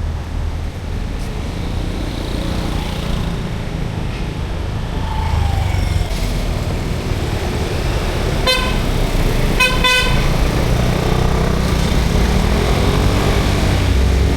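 Street traffic with a steady low engine rumble. A vehicle horn honks once about eight and a half seconds in, then twice in quick succession a second later. An engine rises in pitch near the end.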